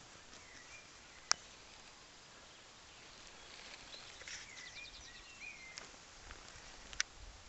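Wild birds singing faintly in the countryside: short curving chirps and a quick rattling trill around the middle. Three sharp clicks stand out, at the very start, about a second in and near the end.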